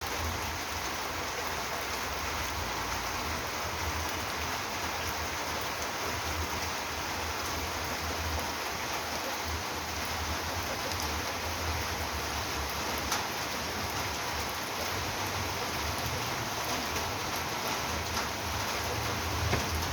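Light drizzle falling steadily, with a few faint ticks of drops hitting nearby surfaces.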